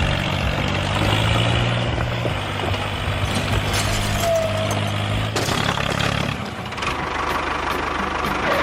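Vehicle engine running steadily, a low hum whose pitch shifts a few times.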